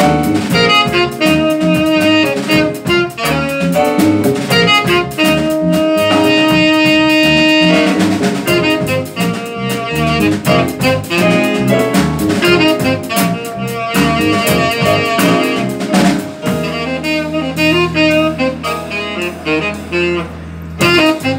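Live jazz quartet playing: saxophone over piano, double bass and drums.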